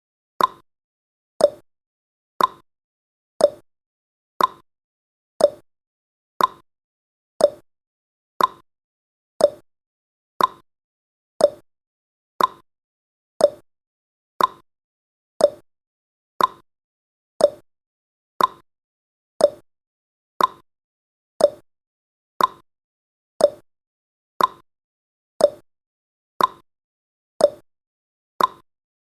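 Countdown timer's ticking sound effect: a short, sharp tick once every second, evenly spaced and all at the same loudness.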